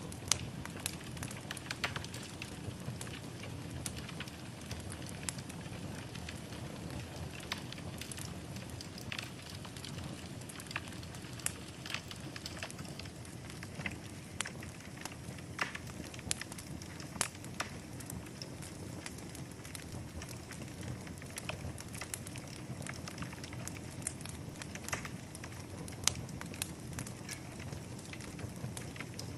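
Wood fire burning in a fireplace: a steady low rumble and hiss with scattered sharp crackles and pops at irregular intervals.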